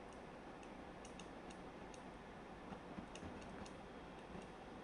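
Faint, irregular light ticks, a dozen or so, over a low steady hiss.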